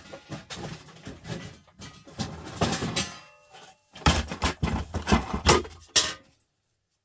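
Hard objects being rummaged through and knocked about on a workbench: a run of clattering knocks, loudest about four to six seconds in.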